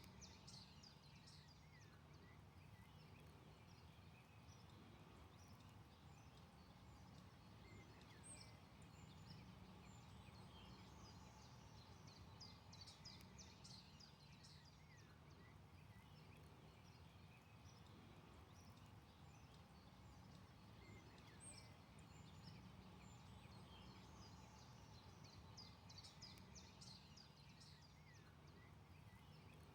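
Faint forest birdsong: bursts of quick, high chirps and trills every several seconds over a steady low background rumble.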